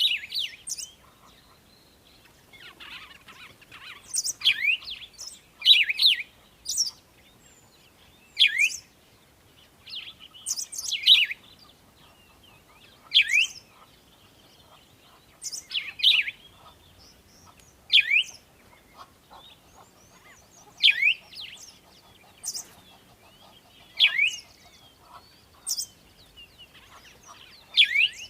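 A bird calling over and over: short, sharply falling whistled notes about every two seconds, with fainter high chirps in between.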